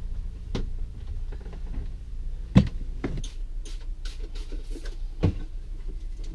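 Several sharp knocks and clicks, the loudest about two and a half seconds in, over a low steady rumble.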